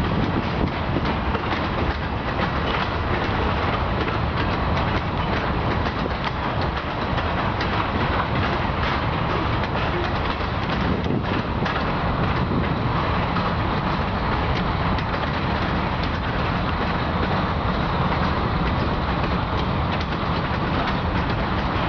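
Freight train rolling steadily past at close range: a continuous rumble of steel wheels on rail, with a constant run of clicks and clacks as the wheels cross rail joints.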